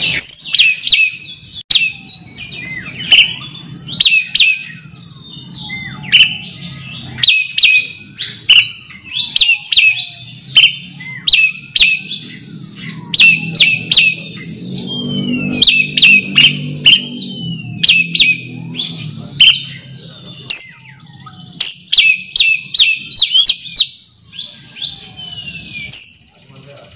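Oriental magpie-robin (kacer) singing its challenge song to a rival: a loud, rapid series of sharp whistles, chirps and chattering notes, with a low-pitched background murmur about midway.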